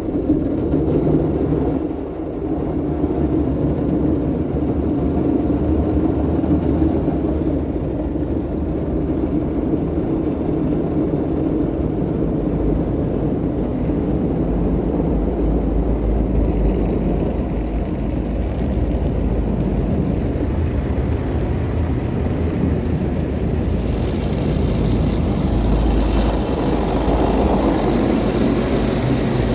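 Istobal Flex5 automatic car wash machinery rumbling steadily over the car, heard from inside the cabin. It starts suddenly, and a higher hiss joins near the end.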